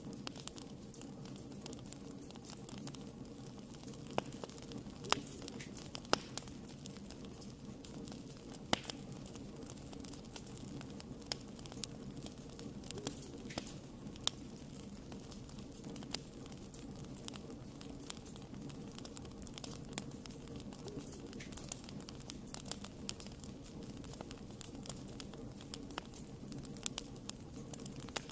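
Wood fire crackling in a fireplace: frequent small snaps and pops, a few of them louder, over a steady low background of the burning fire.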